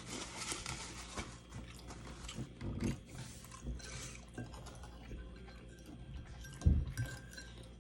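A person eating Thai noodles and chicken, with irregular wet chewing and mouth sounds. A dull knock about seven seconds in is the loudest sound.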